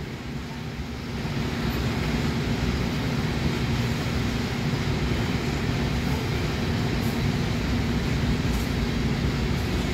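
CN freight train's cars rolling past on the rails, a steady rumble that grows louder about a second in and then holds.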